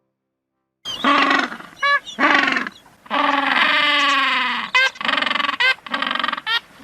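An animal calling repeatedly: a run of short pitched calls, with one long call of nearly two seconds that falls slightly in pitch near the middle, and a few brief high chirps between them.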